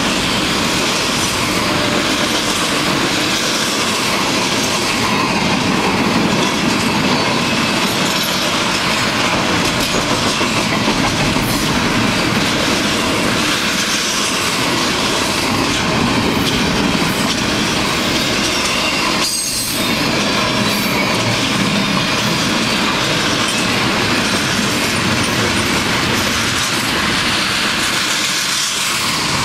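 Double-stack intermodal freight cars rolling past at close range: a loud, steady noise of steel wheels running on the rails.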